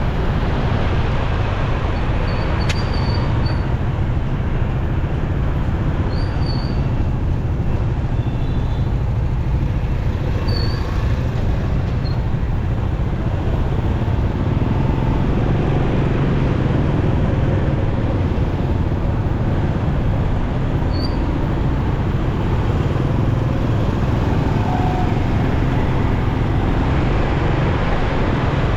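Riding a motorcycle in city traffic: steady low wind rumble on the microphone mixed with engine and road noise.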